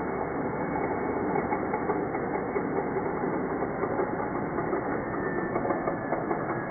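Angle grinder running, its sound slowed down with the slow-motion footage into a steady, dense mechanical rattle full of rapid irregular ticks.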